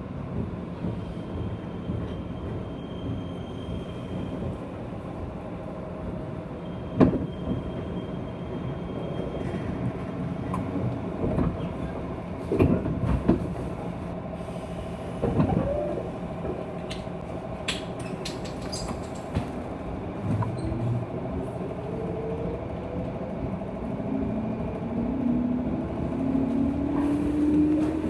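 Aboard a JR West 201-series electric commuter train's motor car under way: a steady rumble of wheels on rail, with scattered clacks and knocks. In the last few seconds a whine rises in pitch as the traction motors pull the train up to speed.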